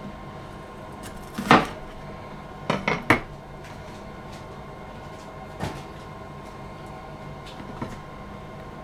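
A kitchen knife knocking on a chopping board a few times, irregularly, while a bell pepper is cut open. The knocks come about a second and a half in, twice around the three-second mark, and lighter near the middle and end, over a steady low hum.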